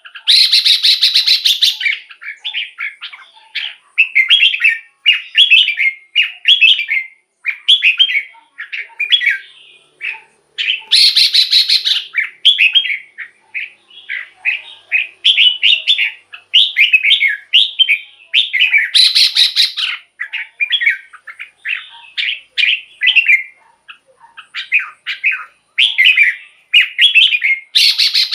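Red-whiskered bulbul singing a run of short, loud whistled phrases. Four harsh, buzzy chatters break in at intervals.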